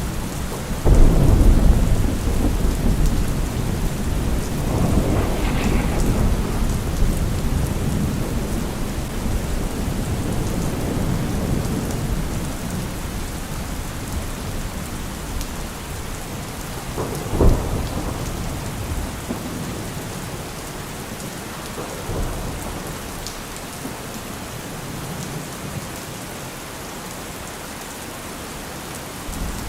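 Heavy rain falling steadily, with deep low rumbles swelling about a second in and again around five seconds, and a shorter, sharper one about two thirds of the way through.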